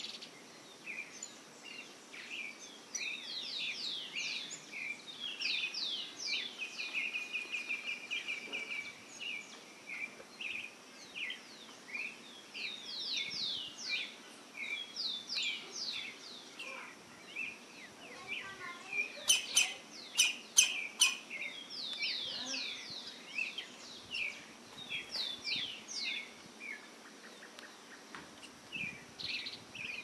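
Birds calling: repeated quick series of short, high, falling chirps, with one held steady note about a quarter of the way in. About two-thirds of the way in come a few sharp, loud clicks, the loudest sounds.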